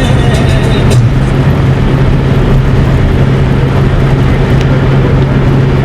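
Steady low rumble of a moving road vehicle, with a few faint clicks in the first second.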